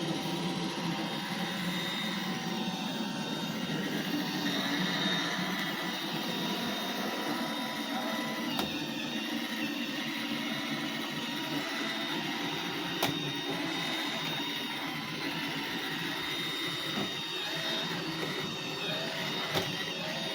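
iRobot Roomba 877 robot vacuum running, its motor and brushes giving a steady whir with a thin high whine, with a sharp click about 13 seconds in and another near the end.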